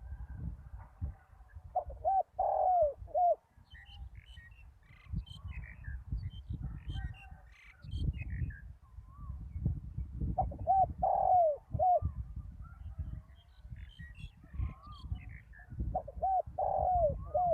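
Spotted dove cooing: three phrases of several short, down-curving coos, spaced several seconds apart. Small birds chirp faintly between the phrases over a low rumble.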